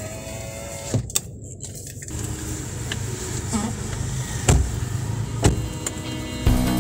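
Inside a car cabin, the engine idles with a steady low rumble. A few sharp clicks or knocks come at about 1 second, 4.5 seconds and 5.5 seconds.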